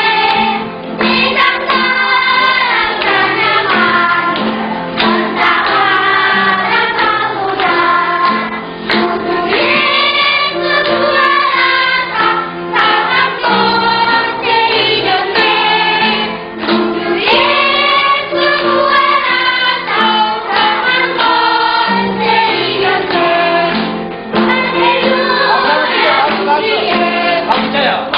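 A choir singing a Christian praise song, with sustained low accompanying notes beneath the voices.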